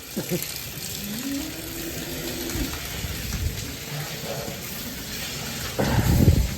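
Steady rain falling, an even hiss, with a faint low drawn-out call about a second in and a brief louder low rumble near the end.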